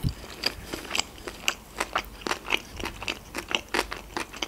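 Close-miked chewing of a mouthful of sushi roll: an irregular run of sharp mouth clicks and soft crunches, several a second.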